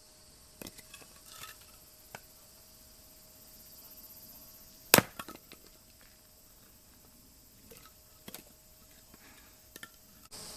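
A single sharp strike of a Husqvarna hatchet into wood about halfway through, with a few lighter knocks and clacks of wood before and after it.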